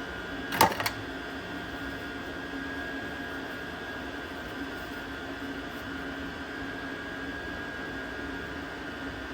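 Steady mechanical hum from a running machine, with two sharp clicks a fraction of a second apart about half a second in.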